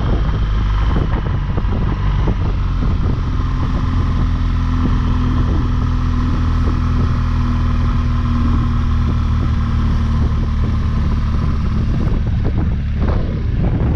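BMW R1200GS boxer-twin engine running steadily under load as the motorcycle climbs, with wind noise over the microphone.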